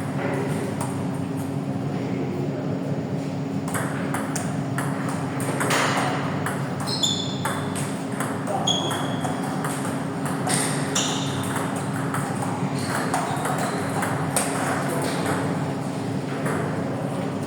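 Table tennis balls clicking off paddles and tables in a steady run of rallies, with a few short high squeaks in the middle and a steady low hum underneath.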